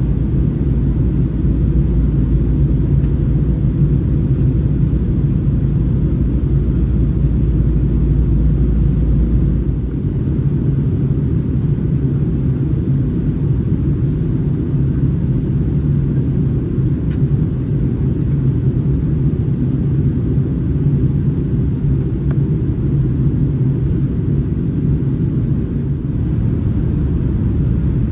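Steady low rumble of engine and airflow noise inside the cabin of an Airbus A321 with IAE V2500 engines, on approach. About ten seconds in the deepest part of the rumble drops away, and the rest stays steady.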